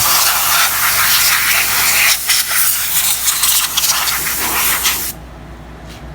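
Compressed air blowing in one long, loud hiss that wavers slightly, then cuts off sharply about five seconds in.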